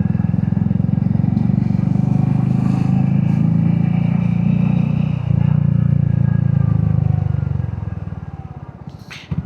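Royal Enfield Hunter 350's single-cylinder engine running under way, with a steady pulsing exhaust note. It dips briefly about five seconds in, then eases off and drops quieter near the end as the bike slows.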